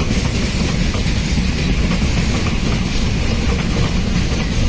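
Container freight train's wagons rolling steadily past, with the continuous noise of steel wheels running on the rails.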